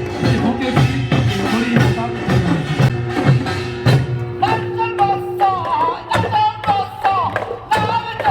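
Korean folk song performance: voices singing over a steady beat of percussion. About halfway a high, wavering melody line comes in and is held.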